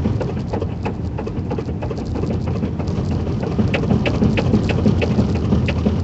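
A vehicle driving on a snow- and ice-covered road, heard from inside the cabin: a steady low rumble of engine and tyres with many irregular crackles and knocks from the tyres over the snow, getting busier about halfway through.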